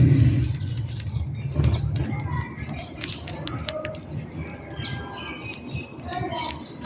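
Small birds chirping: many short, overlapping chirps and calls. A low rumble fades out within the first second or so.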